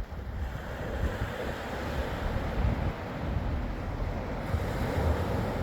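North Sea waves washing in as a steady surf hiss that swells about half a second in, with wind buffeting the microphone as a low, gusty rumble.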